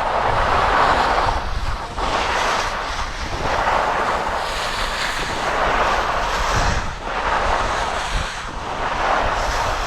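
Skis scraping over packed snow through a run of turns, a swell of scraping about every second and a half, with wind rumbling on the microphone.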